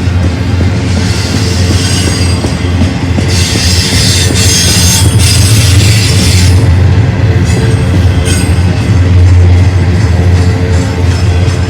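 Rock music playing over the noise of a BNSF intermodal freight train rolling past, with a steady low rumble and a stretch of louder high-pitched wheel noise about three to six seconds in.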